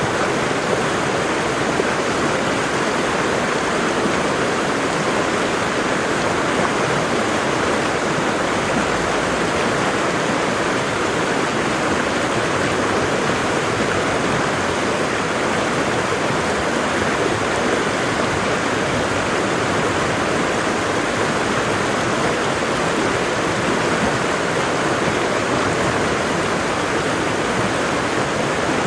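Waterfall rushing at a steady level, an even hiss of falling water with no pauses.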